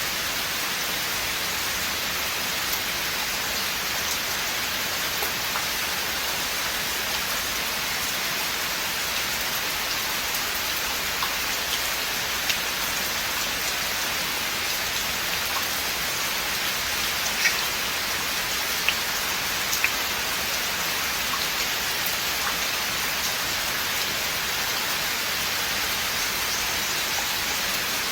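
Steady rain falling through forest, an even hiss with scattered louder drops ticking close by.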